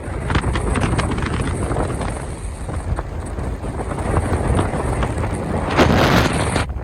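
Strong gale-force wind buffeting the microphone in uneven gusts, a loud low rumble with a stronger gust about six seconds in.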